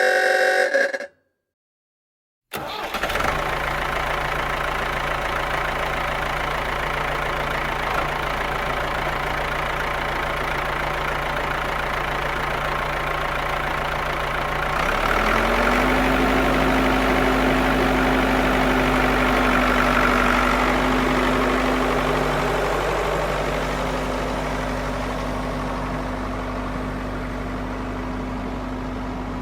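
A brief pitched tone that cuts off, then after a short gap a motor starts running steadily. About halfway through it steps up to a slightly louder, higher steady hum.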